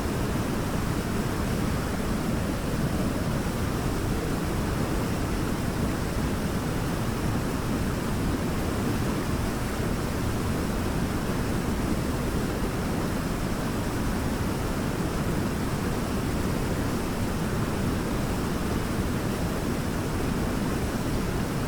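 Waterfall: water falling and splashing in a constant deep rush, without a break.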